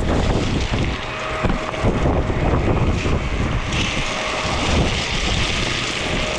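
Dirt bike engine running on the move, largely buried under heavy wind buffeting on the microphone; the hiss grows a little louder about two thirds of the way through.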